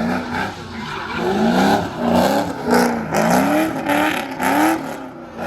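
A high-performance car engine revved hard in a quick series of throttle blips, its pitch rising and falling about twice a second, with rough noise over the top.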